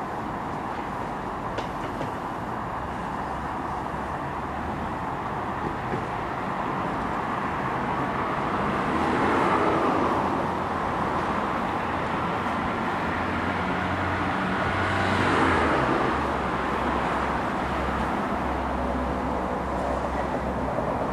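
Steady outdoor rumble of passing vehicles, with two brief swells as vehicles go by about a third and three quarters of the way through, and a low hum building in the second half.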